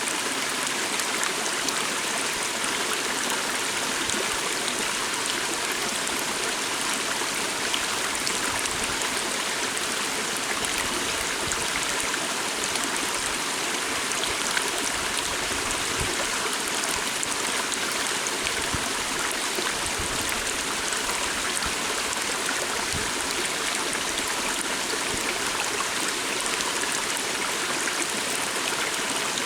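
Small stream flowing, a steady rushing and trickling of water.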